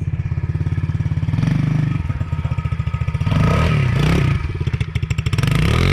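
Small dirt bike engine running with a rapid, steady firing beat. It is revved up and back down about three seconds in, and again near the end.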